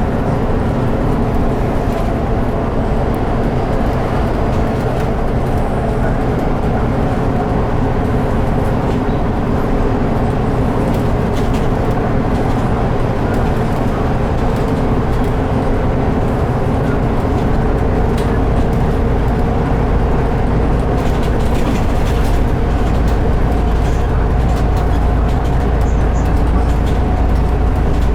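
A 2014 Volvo 8900LE bus on a Volvo B8RLE chassis under way: its diesel engine runs with a steady drone over road and tyre rumble. About two-thirds of the way through, the low rumble grows heavier.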